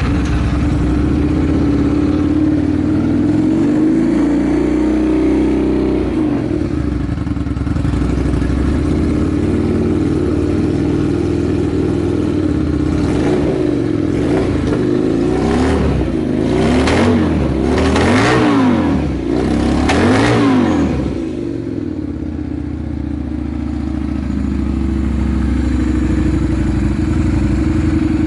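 Honda Steed 400's V-twin engine through an aftermarket Supertrapp megaphone muffler, idling just after a cold start. Partway through it is revved in a quick series of throttle blips, each rising and falling back, then it settles to a steady idle again. It revs up cleanly with no abnormal noises.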